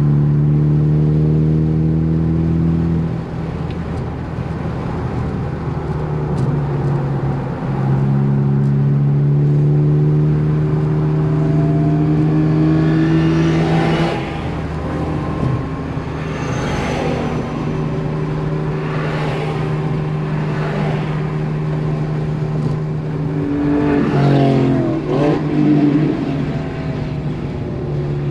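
Ford Focus ST engine heard from inside the car at speed on track, running at fairly steady revs. Its pitch drops and climbs again a few times, and it rises briefly near the end.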